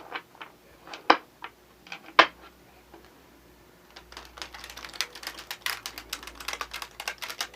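A deck of tarot cards being handled and shuffled: a few separate taps of the cards in the first couple of seconds, then from about four seconds in a quick, continuous run of card clicks and flicks.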